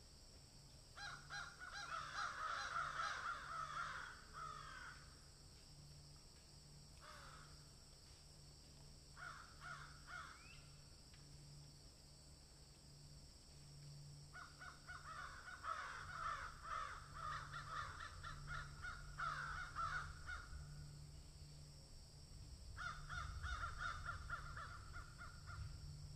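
Birds calling harshly in four bouts of rapidly repeated notes; the longest bout lasts about seven seconds.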